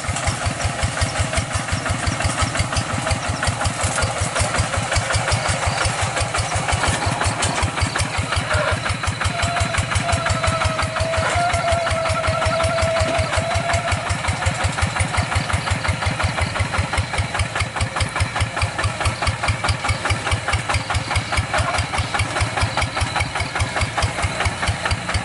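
Single-cylinder diesel engine of a two-wheel hand tractor running steadily with an even, rapid chugging beat.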